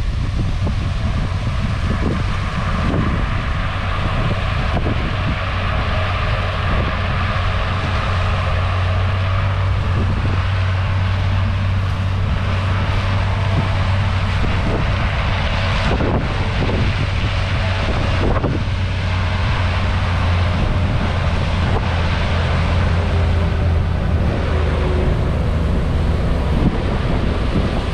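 Heavy diesel farm machinery running steadily at working speed, with a deep, even engine hum and mechanical noise.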